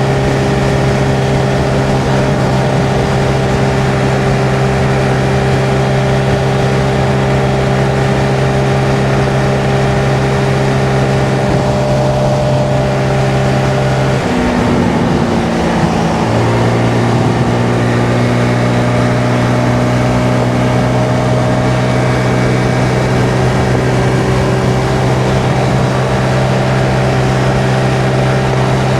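Honda Navi's small single-cylinder engine running steadily while riding, under a steady rush of wind and road noise. About halfway through, the engine note dips briefly, then settles back to the same pitch.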